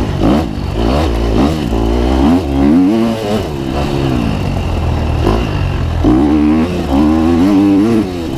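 Two-stroke dirt bike engine revving up and down again and again as the throttle is worked through a wooded trail section, its pitch rising and falling several times.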